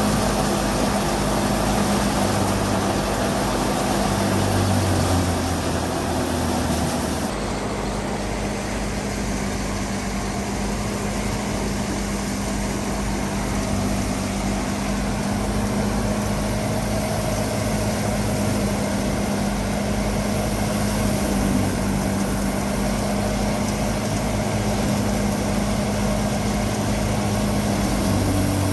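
Fiat 480 tractor's diesel engine running steadily with the threshing machinery it drives. The sound shifts abruptly about seven seconds in, then runs on evenly.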